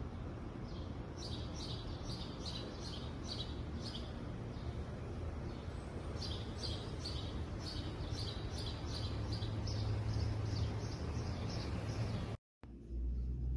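A bird chirping repeatedly in two runs of short, high chirps, about three a second, over a steady background hiss of outdoor noise.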